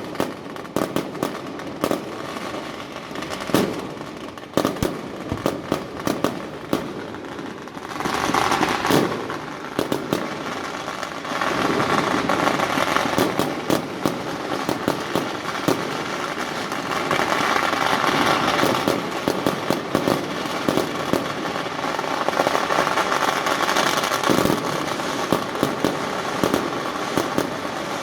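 Fireworks and firecrackers going off: many sharp bangs in quick succession, thickening about eight seconds in into a near-continuous crackle.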